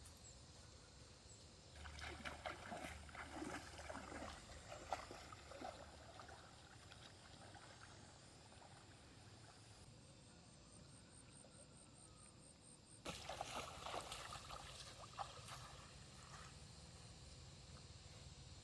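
Water splashing and sloshing in shallow stream water, in two irregular spells a few seconds long, with faint quiet between them.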